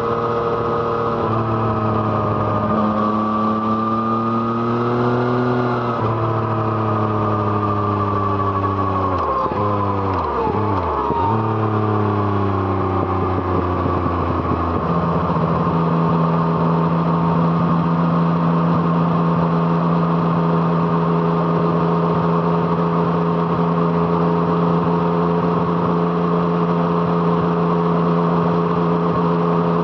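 Yamaha MT-09's 847 cc inline three-cylinder engine through an Arrow Thunder exhaust, heard from the rider's position while riding. The engine note rises a little, then slides down for several seconds. About halfway through the pitch steps up and holds steady at a constant cruising speed.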